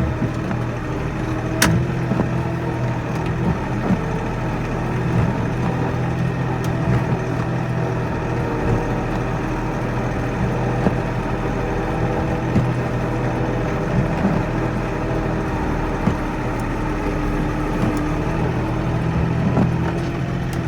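Kioti NX4510 compact tractor's diesel engine running steadily while plowing snow, with a few sharp clicks and knocks now and then.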